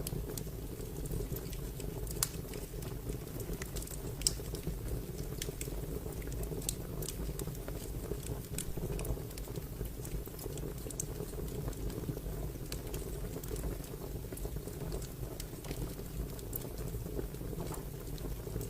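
Fire crackling: a steady low rushing with many scattered sharp pops and snaps, one louder pop about four seconds in.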